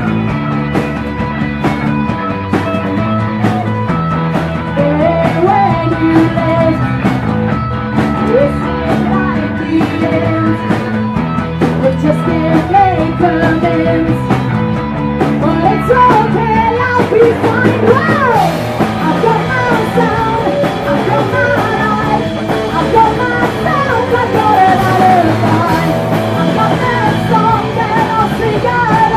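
Live punk rock band playing loud, with amplified guitar, bass and drums; a lead line bends and slides in pitch, with one long slide about eighteen seconds in.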